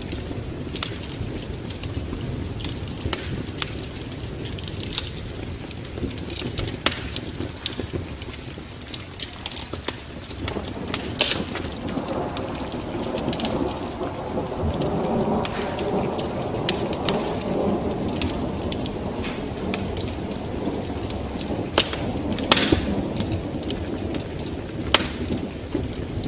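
Wood fire in a fireplace crackling, with frequent sharp pops over a low steady rumble of flames, swelling fuller for a while in the middle.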